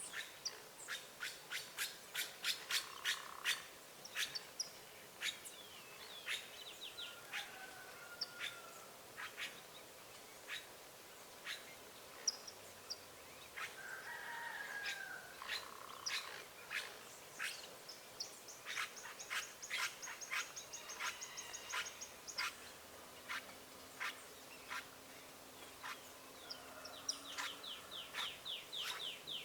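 Wild birds calling: quick series of sharp, clicking chirps, a few short whistled glides and, about two-thirds through, a buzzy rattling call lasting a few seconds.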